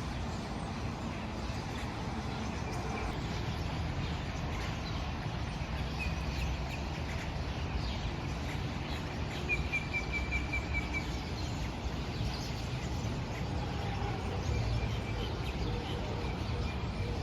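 Songbirds calling faintly over a steady low outdoor rumble: a short chirp about six seconds in, a rapid trill of repeated notes around ten seconds, and a few softer calls near the end.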